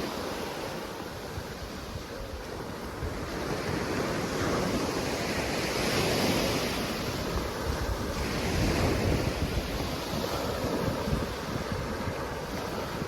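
Surf on a beach: waves breaking and washing in, swelling louder twice, around the middle and again a little later, with wind rumbling on the microphone.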